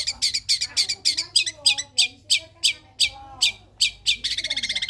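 Long-tailed shrike (cendet) singing a fast run of sharp, high chirps, about four or five a second, then breaking into a rapid, even trill about four seconds in. This is the 'greja tarung' phrase, an imitation of fighting sparrows.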